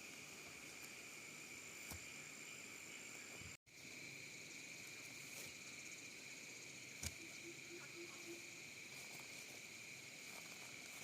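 Faint, steady high-pitched chirring of insects, briefly cut off completely about a third of the way in. A light knock is heard near the middle.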